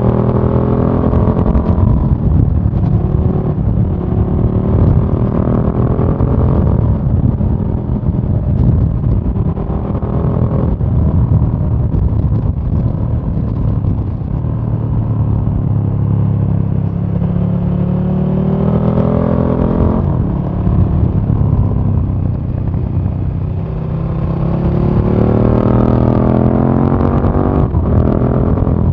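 A 2017 KTM 1290 Super Duke R's V-twin engine heard onboard under riding. Its pitch climbs as the bike accelerates, then drops sharply; this happens three times.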